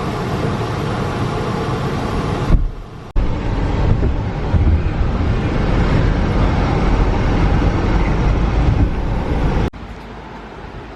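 Steady rushing road and wind noise of a moving car, heaviest in the low end, broken by sudden cuts about two and a half seconds in, about three seconds in and near the end, where it drops to a quieter rush.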